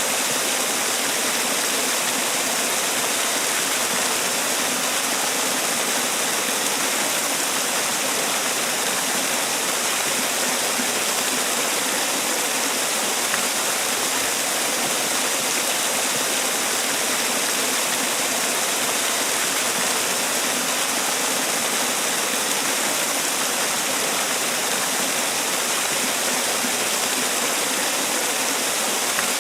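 Man-made waterfall: water falling and splashing in a steady, even rush, strongest in the high hiss.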